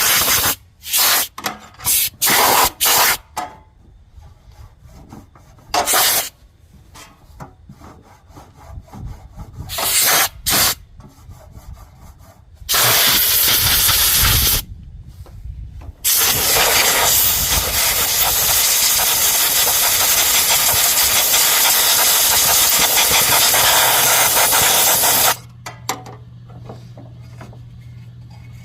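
Compressed-air blowgun blowing dust out of a forced-air heater's fan: several short blasts of hiss, then two long blasts, the last about nine seconds. A low steady hum starts near the end.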